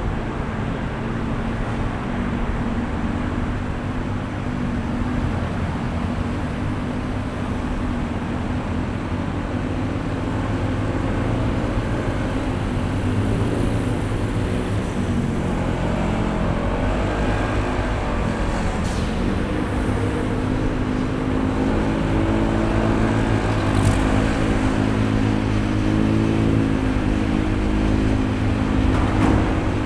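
Honda ADV160 scooter's single-cylinder engine running steadily while riding, with its continuous drone under road and wind noise.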